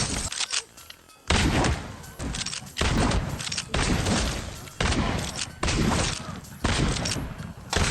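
A rapid series of revolver shots, about seven in all, roughly one a second, each cracking out sharply and ringing off as the next one comes.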